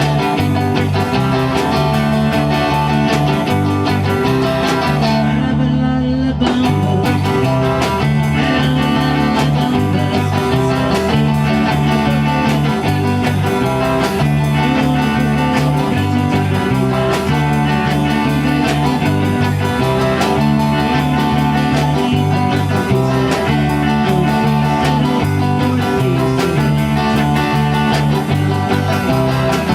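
A live band playing a guitar-led blues-rock instrumental passage with a steady repeating bass line. The treble drops out briefly about five seconds in.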